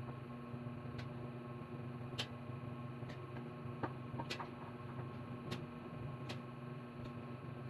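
About eight light, irregularly spaced clicks and taps of parts and hardware being handled during assembly, over a steady low electrical hum.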